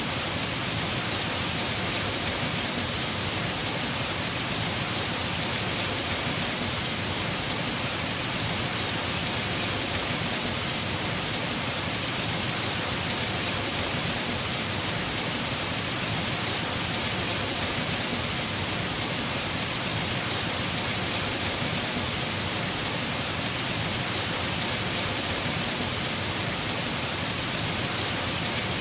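Heavy rain drumming steadily on a house roof, a constant even hiss with no breaks.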